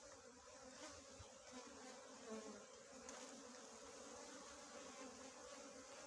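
Faint, steady hum of a cluster of small honeybees buzzing around their opened nest.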